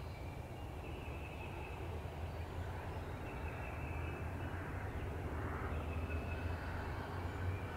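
Outdoor woodland ambience: a steady low rumble with faint bird calls over it.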